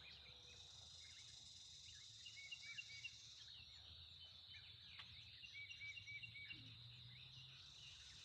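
Faint outdoor ambience: a steady high-pitched insect drone, with small birds chirping in two short runs of repeated notes.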